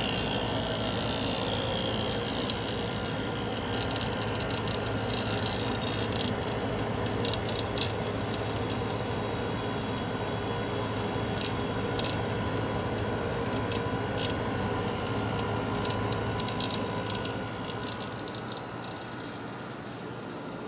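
1969 GM Frigidaire window air conditioner running on low cool: the reciprocating compressor hums steadily under the rush of the blower fan, with faint scattered ticks. The noise eases off a little near the end.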